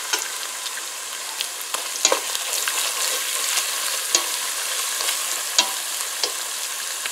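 Hot oil sizzling steadily as browned onions and red chilli powder are stirred in a metal pot with a plastic spatula, the spatula clicking and scraping against the pot a few times.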